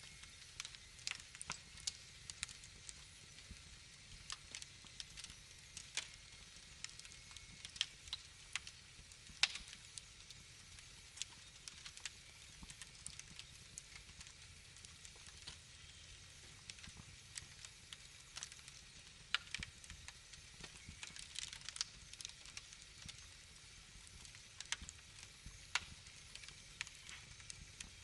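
Wood fire crackling in a fireplace: irregular sharp pops and crackles over a soft, steady hiss.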